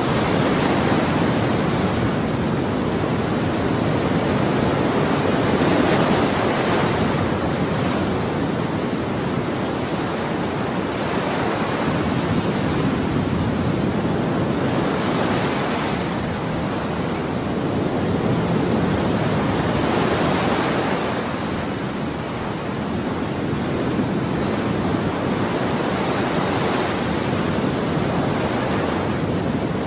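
Ocean surf: waves breaking and washing in continuously, the hiss swelling every few seconds as each wave breaks.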